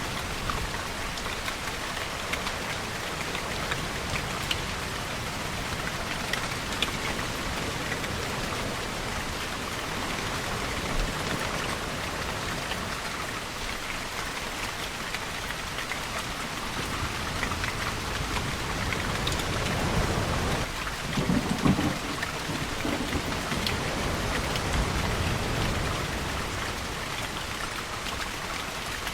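Steady rainfall pattering on surfaces, with a low rumble of thunder building about two-thirds of the way through and fading after a few seconds.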